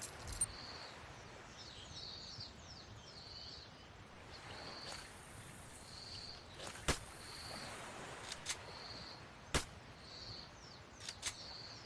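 Faint outdoor ambience with a bird repeating a short, high, flat note about once every second or so, some quick falling chirps in the first few seconds, and a few sharp clicks.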